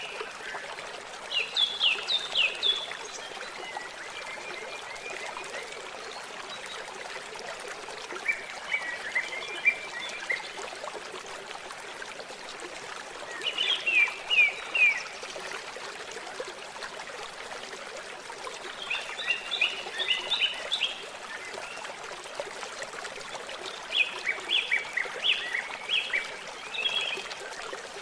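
Water trickling and running steadily, with a songbird singing short phrases of quick notes every few seconds.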